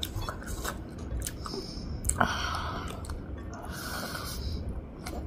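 Chewing and wet mouth sounds of someone eating pork chow mein noodles by hand, with small clicks and two short breathy hisses, about two seconds in and again near four seconds.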